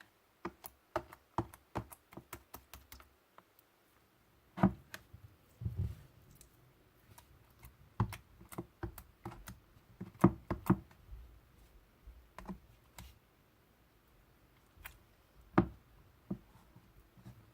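Irregular clicking and tapping in quick runs with short pauses, with a few louder knocks among them, around 4.5, 8, 10 and 15.5 seconds in.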